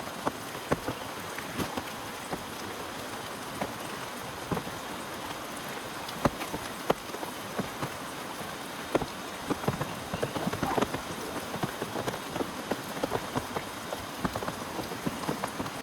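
Heavy rain falling steadily, with large drops striking close by as irregular sharp taps over the hiss.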